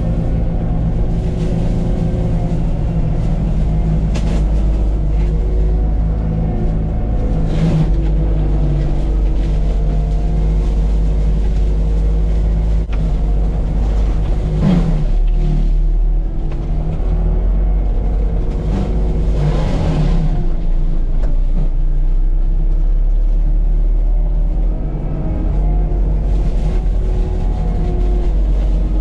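A CAT 259D3 skid steer's diesel engine running hard and driving a Gyrotrac forestry mulcher head, with a steady rumble and a wavering whine. Four short sharp cracks come at intervals as the head strikes material.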